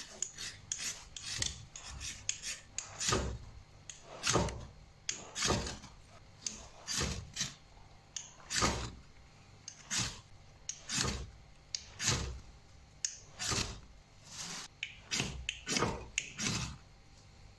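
Ferrocerium rod being struck again and again with a striker, a rough rasping scrape each time, about one or two strokes a second, throwing sparks to ignite a tinder bundle of fine dry twigs and leaves.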